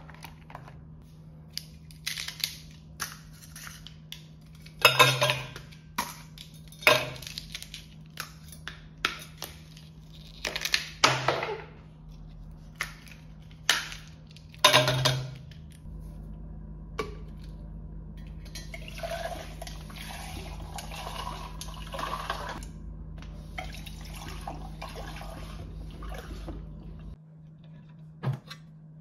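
Dishes and utensils clattering and knocking in a kitchen, then water running into a bucket for about eleven seconds, which cuts off suddenly near the end.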